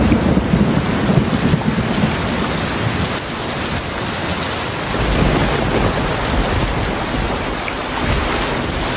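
Heavy rain falling steadily, with thunder rumbling low underneath. The rumble swells near the start and again from about halfway through.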